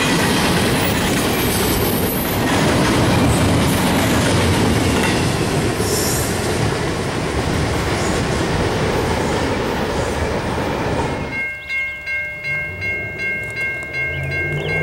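Double-stack container freight train rolling past, its well cars' wheels clattering steadily on the rails. About eleven seconds in the sound cuts to a grade crossing warning bell ringing about twice a second.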